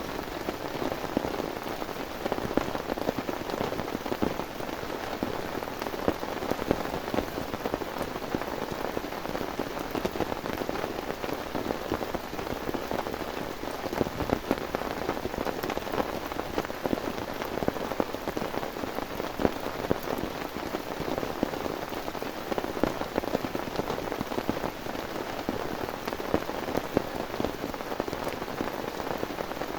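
Heavy rain falling steadily, with many single drops landing close by as sharp ticks over the even hiss of the downpour.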